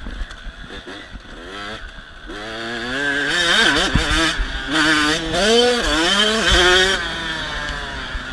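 Dirt bike engine revving hard on a motocross track, its pitch rising and dropping through throttle changes and shifts. It builds from about two seconds in, is loudest over the middle, and drops off about seven seconds in.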